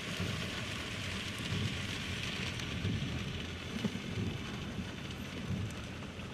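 Steady rushing of the flooded Saline River, a continuous hiss of water, with wind rumbling on the microphone.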